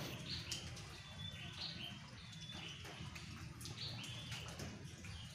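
A songbird singing a short, high phrase of a few stepped notes, repeated about every two seconds, over a low steady background rumble.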